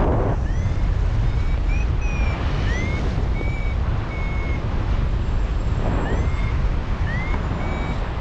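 Paragliding variometer beeping in a string of short high tones, some sliding upward, which signal that the glider is climbing in lift. Under the beeps, strong wind rumbles steadily on the microphone.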